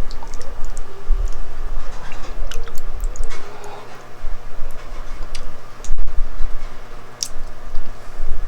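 Close-miked mukbang eating: irregular chewing with wet mouth clicks and smacks, over a steady low hum.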